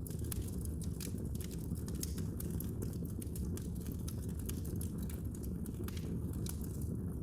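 Wood fire burning in a fireplace: a steady low rumble of the flames with frequent irregular sharp crackles and pops from the burning wood.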